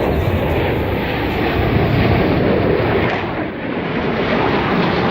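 Formation of four display aircraft passing overhead: loud engine noise that swells and dips briefly about three and a half seconds in.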